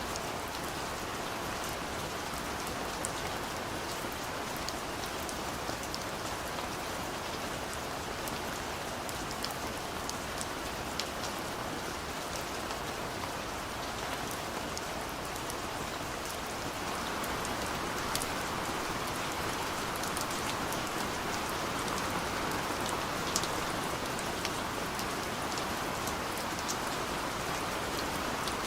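Steady rain falling, with many small drop ticks through the downpour; it grows a little louder about two-thirds of the way through.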